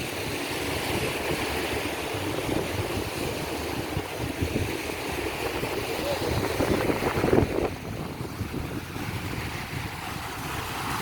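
Sea surf washing onto the beach, with wind buffeting the microphone; a louder surge of water comes about seven seconds in.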